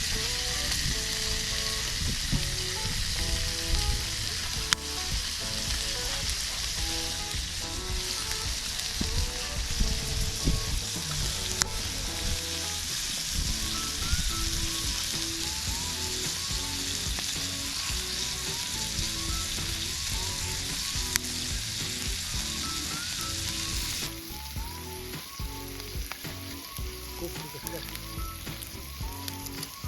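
Food frying in a hot pan, a steady sizzle with scattered crackles, which turns quieter about 24 seconds in. A light melody of short notes plays alongside.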